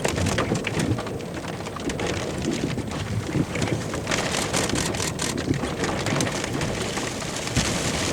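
Heavy rain pelting a vehicle during a supercell thunderstorm: a dense patter of many small hits over a steady hiss, with a low rumble underneath.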